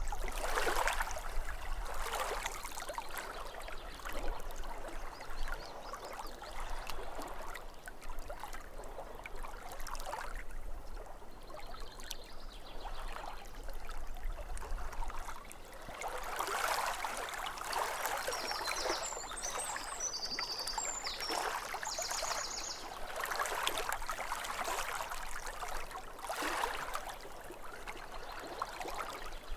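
Lake water lapping at the shore in small waves that swell and ebb every few seconds. A bird calls briefly with a few high chirps about two-thirds of the way through.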